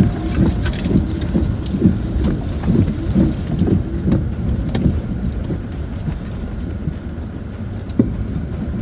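Cabin noise of a Land Rover Discovery 4 driving along a rough, wet off-road track: a steady low rumble of engine and tyres, broken by frequent knocks and rattles from the bumps. It eases a little in the second half.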